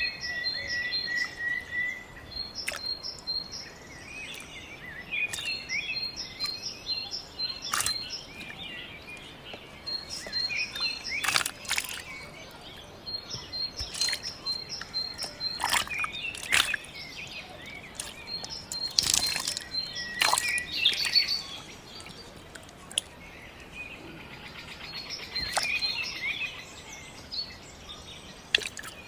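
Birds chirping in quick series of short high notes, with scattered sharp clicks and knocks.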